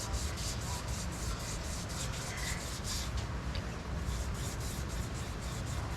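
Wet 2000-grit sandpaper strip rubbing on a crankshaft journal as it is worked back and forth with a shoestring, in quick rasping strokes about five a second. There is a short break a little past the middle.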